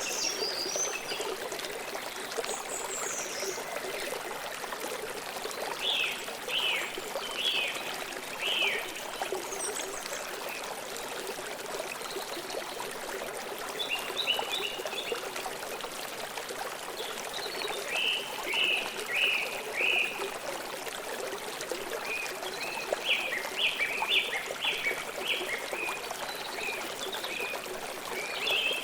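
Stream of water flowing steadily, with birds chirping in short phrases of quick high notes several times.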